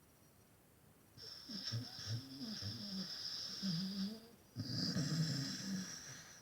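Dog snoring in its sleep: two long snoring breaths, the first starting about a second in and the second after a brief pause near four and a half seconds. Each has a high whistle over a low fluttering rumble.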